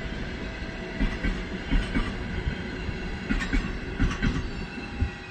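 Passenger train rolling out of a station at low speed, its wheels knocking over rail joints in uneven clusters of clicks over a steady rolling rumble.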